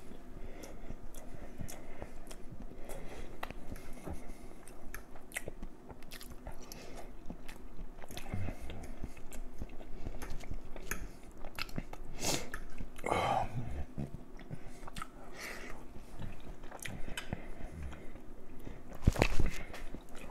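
A man chewing and biting through a soul-food meal of cornbread, collard greens and smoked neck bones close to the microphone, with many small wet mouth clicks. A single louder knock comes near the end.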